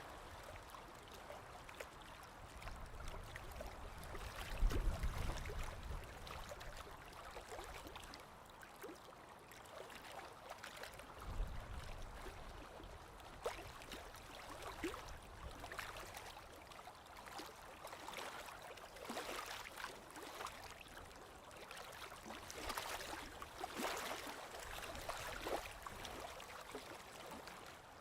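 Small lake waves lapping on the shore: a faint, irregular patter of little splashes and trickles. Two brief low rumbles stand out, the louder one about five seconds in and a second near the middle.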